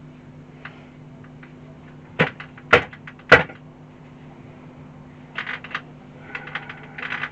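Clicks and knocks of small hard parts being handled, with three sharper knocks about two to three and a half seconds in, then bursts of light rattling near the end, over a faint steady hum.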